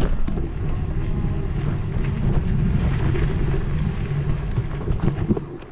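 Wind buffeting the microphone: a steady low rumble with scattered clicks and knocks through it.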